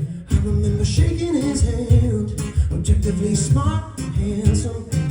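A song played live: a singer's voice over guitar accompaniment.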